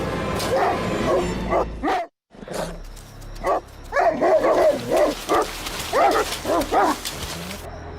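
A dog barking in short repeated barks, with a run of rapid barks in the second half. The sound cuts out completely for a moment about two seconds in.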